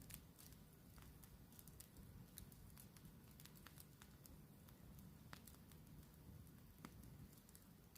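Campfire crackling faintly: scattered, irregular sharp pops and ticks, over a low steady rumble.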